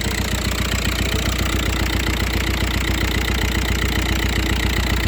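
Volkswagen Passat B5+ 1.9 TDI (AVF) four-cylinder diesel engine idling steadily, with an even, rhythmic beat.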